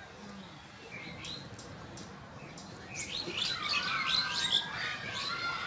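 Birds chirping: a few short chirps about a second in, then a busy run of chirps and a longer sliding call in the second half.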